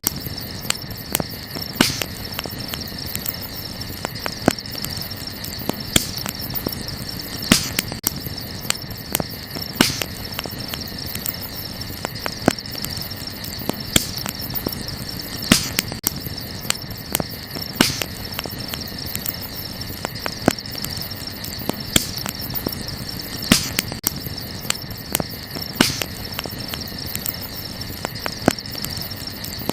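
Wood fire crackling, with sharp pops every second or so and smaller snaps between, over a steady high-pitched chorus of night insects.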